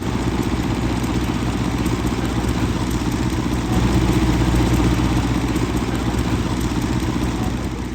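Vintage tractor engine running steadily at a fast idle, getting a little louder about halfway through.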